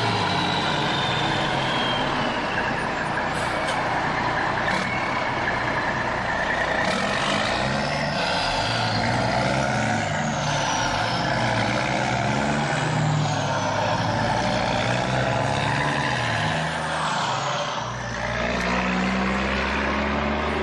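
Truck-like engine sound, its low pitch shifting up and down, with several high falling whistle-like tones over it and a short dip near the end.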